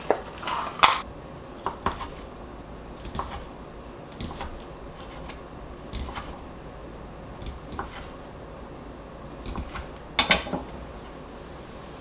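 Dishes and utensils clinking and knocking: scattered light clinks of kitchenware, with a louder quick cluster of clatter about ten seconds in.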